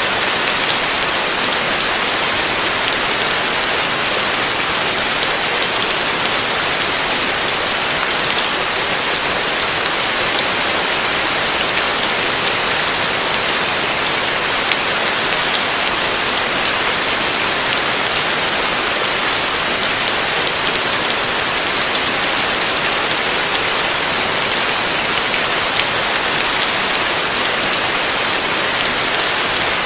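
Heavy rain falling steadily on a roof: a dense, even hiss of drops with fine individual drop hits, unchanging in strength.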